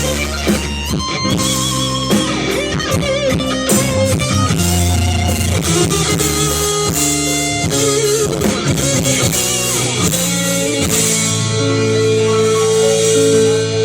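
Live rock band playing an electric guitar solo, with sustained notes bent and shaken with vibrato over bass and drum kit. Near the end the guitar settles on one long held note.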